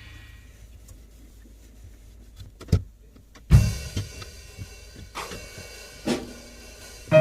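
Background music fading out, then four sharp knocks and clunks, the heaviest about three and a half seconds in, with faint handling noise between.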